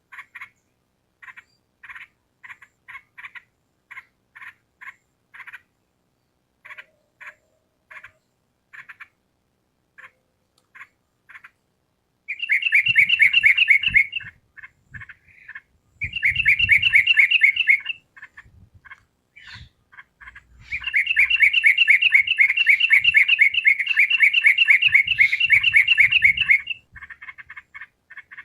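Yellow-vented bulbul (trucukan) singing: short separate call notes for the first twelve seconds or so, then three loud bursts of fast chattering song, the last and longest lasting about six seconds.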